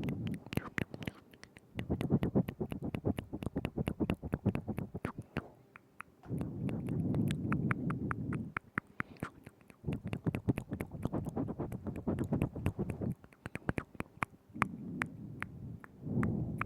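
Close-up mouth sounds: rapid wet clicks and smacks of tongue and lips right at the microphone. Low muffled rumbling comes and goes in stretches of a couple of seconds.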